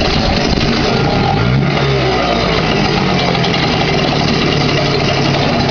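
1992 Yamaha 3 hp single-cylinder two-stroke outboard motor running, pumping good cooling water. Its pitch rises about a second and a half in, then holds steady.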